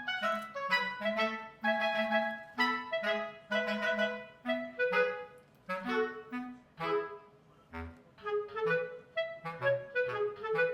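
Light background music: a clarinet-like woodwind playing a bouncy, detached melody over a plucked or pizzicato bass line.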